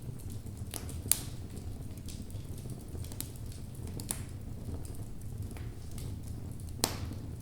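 Wood fire burning in a fireplace: a steady low rumble of the flames with scattered sharp crackles and pops from the burning logs, the loudest about a second in and again near the end.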